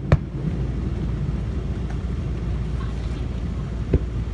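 Fireworks bursting: a sharp bang just after the start and another near the end, over a steady low rumble.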